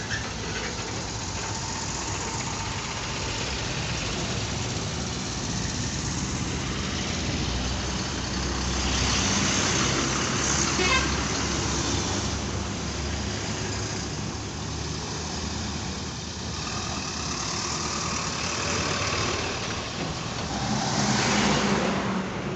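Road traffic noise: a steady rumble of vehicles on the road, swelling louder about nine seconds in and again near the end as vehicles pass close.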